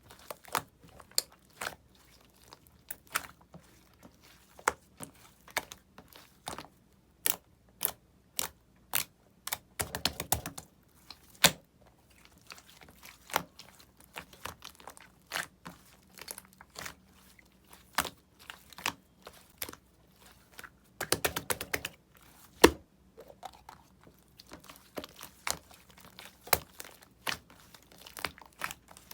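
Slime being pressed and squeezed by hand, making a string of sharp, wet clicks and pops, with two denser runs of crackling about ten and twenty-one seconds in.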